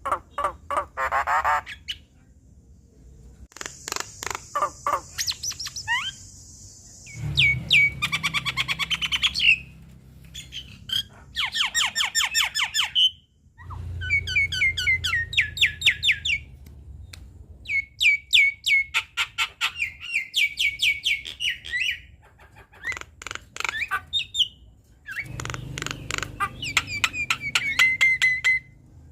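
Javan myna singing a varied chattering song: bursts of rapid repeated notes, whistles and harsh squawks, each lasting a second or two, with short pauses between them.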